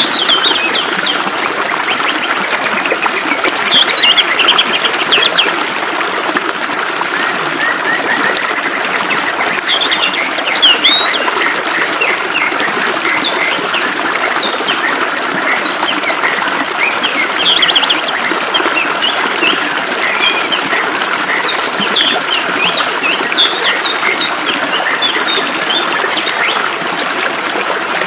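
Many birds chirping and trilling over the steady hiss of flowing water.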